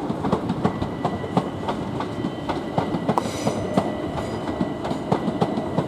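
Southern Class 377 electric multiple unit rolling past, its wheels clattering over the track joints in an irregular run of sharp clicks over a steady rumble. A faint steady whine sits underneath, and a brief high hiss comes about halfway through.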